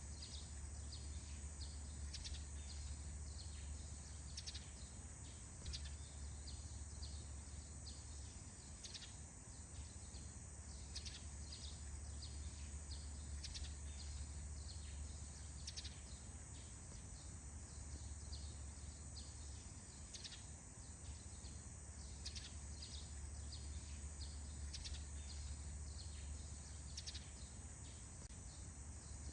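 Morning forest ambience: many short, high bird chirps, with a steady high-pitched insect drone and a low rumble underneath.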